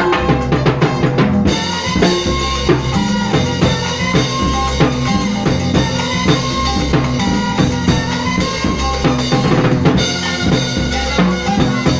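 A Latin tropical dance band playing rumba: drum kit and percussion keep a steady driving beat under bass and sustained melodic lines.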